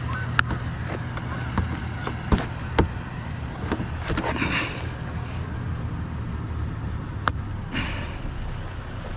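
A vehicle engine idling with a steady low hum, and scattered light clicks and knocks of scrap items being handled.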